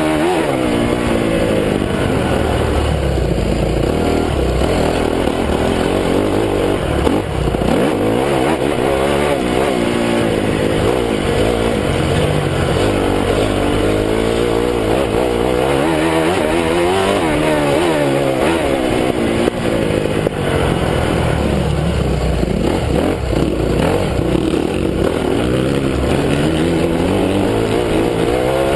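Honda CRF250 single-cylinder four-stroke motocross engine under riding load, its revs rising and falling again and again as the rider opens and closes the throttle and shifts. A brief sharp knock about 7 seconds in.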